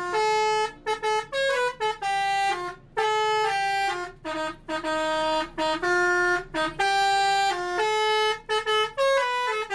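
Indonesian truck telolet air horn playing a melody: short, loud held horn notes stepping between a few pitches with brief gaps between them.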